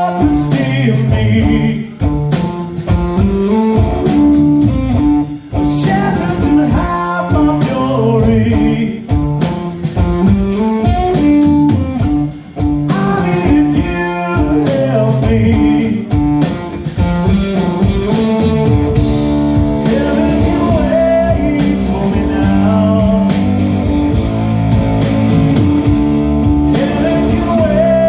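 Live band playing a blues-rock song: guitar over a steady beat, with singing.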